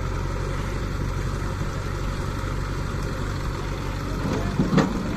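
Diesel engine of heavy machinery idling steadily, with one short sharp clank near the end.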